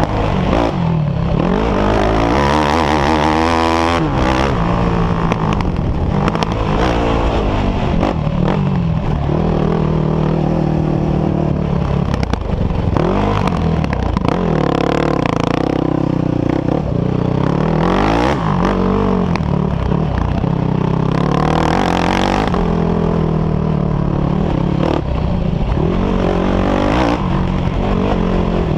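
Off-road engines of a sport quad and dirt bikes revving hard, their pitch rising and falling again and again as they ride and jump.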